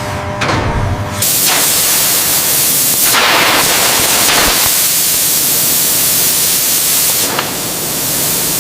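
A loud, steady hiss, like a spray or jet of gas, that sets in about a second in and eases slightly near the end.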